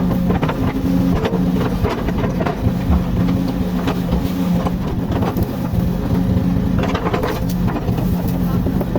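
Komatsu excavator's diesel engine running steadily under load, with scattered knocks and scrapes from the work.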